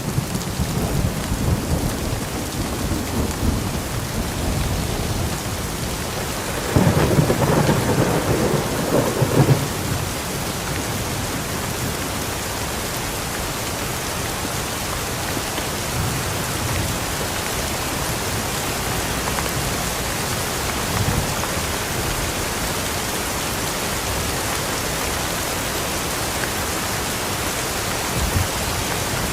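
Steady rain falling, with thunder rumbling underneath; the loudest roll of thunder comes about seven seconds in and lasts a couple of seconds.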